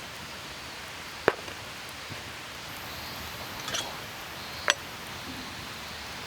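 Two sharp clicks, one about a second in and another near the end, with a few faint ticks between them, over a steady hiss.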